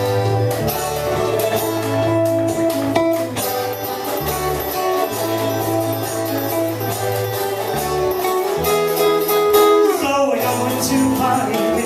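Live band playing a song's instrumental intro, led by guitar over steady bass notes, with a falling slide in pitch about ten seconds in.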